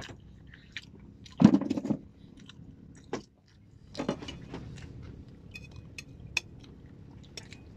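A man chewing raw sea urchin close to the microphone, with wet mouth clicks throughout and a louder bite about a second and a half in.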